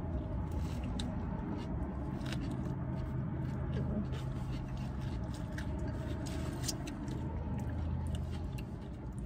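Two people chewing and biting into sub sandwiches, with many small soft clicks and crunches of bread and lettuce, over a steady low hum inside a car cabin.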